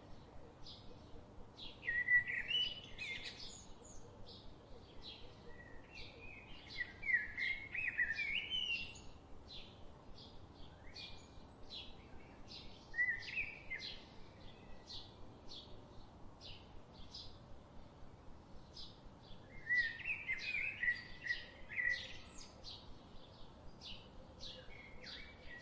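Birds chirping: a steady run of short high chirps repeated a little under twice a second, with louder bursts of warbling song breaking in four or five times.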